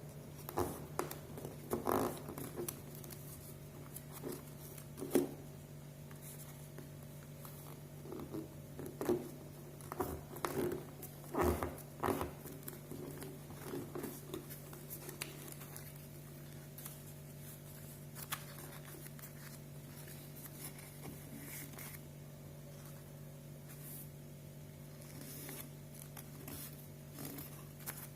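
A sheet of paper being handled, folded and creased by hand: irregular rustles and scrapes, busiest in the first half and sparser later, over a steady low hum.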